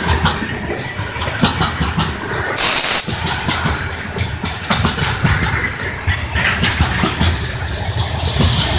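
Freight train's covered hopper cars rolling past at trackside: steel wheels rumbling and clicking over the rails. A loud burst of hiss comes about two and a half seconds in.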